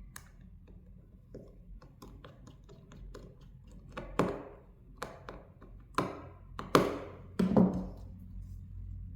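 A run of light taps and clicks, like a handset and small tools being handled on a work surface, with four louder knocks in the second half.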